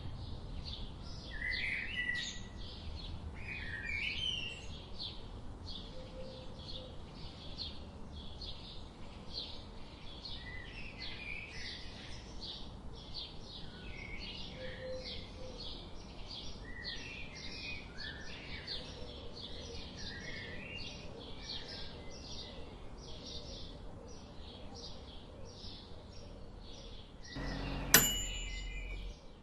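Birds chirping: one bird repeats short high chirps a few times a second while other birds call lower in between. A single sharp click sounds near the end.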